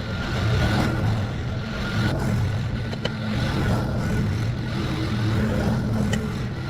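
An engine running steadily at a constant speed, under an even hiss.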